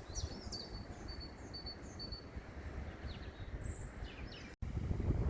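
Wind rumbling on the microphone while a small songbird sings a quick run of high chirps over the first two seconds, with a few more calls later. About four and a half seconds in the sound cuts off sharply and the wind comes back louder.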